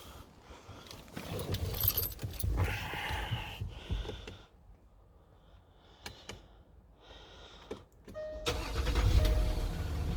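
Range Rover Sport engine started about eight seconds in and running steadily after, with a short tone repeating about once a second. Before that, keys or other small things are handled.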